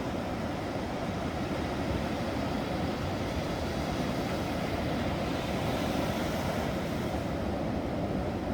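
Ocean waves rolling in as a steady low rumble of surf, with a slight swell about five or six seconds in.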